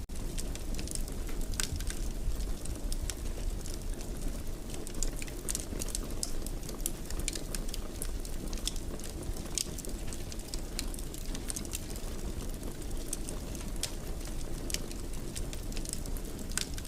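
Wood fire burning in a fireplace: a steady low rush of flame with frequent, irregular crackles and pops.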